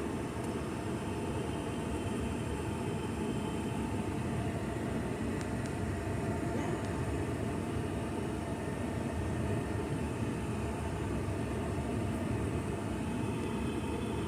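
Steady noise inside a truck's cab: the engine idling with the air-conditioning blower running.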